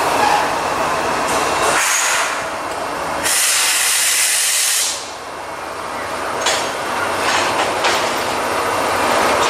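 A train running along the rails with steady rolling noise. About three seconds in, a loud hiss starts and lasts under two seconds.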